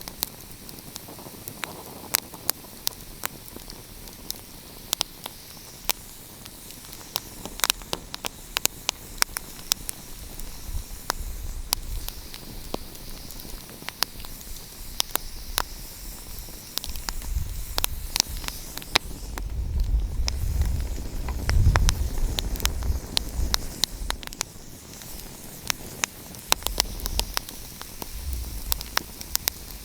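Wood fire crackling, with frequent sharp pops and snaps over a steady hiss. A low rumble swells up through the middle and fades again.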